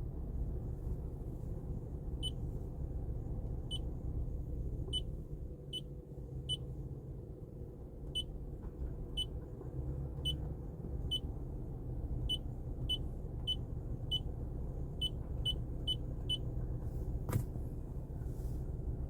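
Short, high single beeps from the climate-control panel of an 80-series Toyota Harrier, one for each button press. There are about seventeen of them at uneven intervals, over a steady low cabin rumble, with one sharp click near the end.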